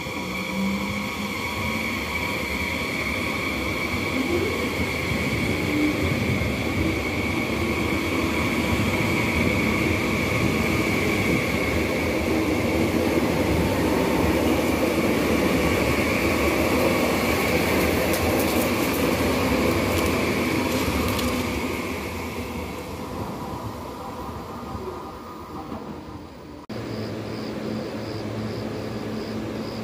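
A Frecciarossa 1000 electric high-speed trainset moving past alongside the platform: a steady high electric whine over the rumble of its wheels on the rails, loudest in the middle and fading away about three-quarters of the way through. Near the end it gives way abruptly to a quieter, steady lower hum.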